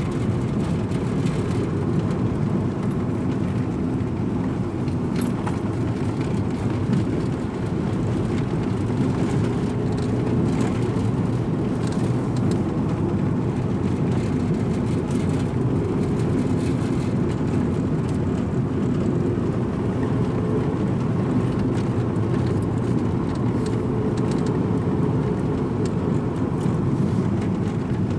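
Strong wind buffeting the microphone: a loud, steady low rumble throughout.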